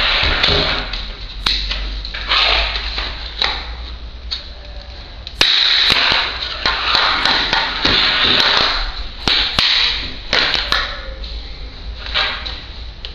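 Plastic clicks and knocks from an Astone full-face helmet's visor being worked off and on its side pivot mechanism, with rubbing and rustling of handling between the clicks.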